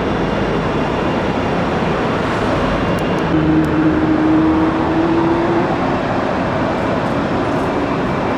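Jet airliner engines running with a steady, loud rush of noise; about a third of the way in a steady hum joins briefly and the sound grows a little louder.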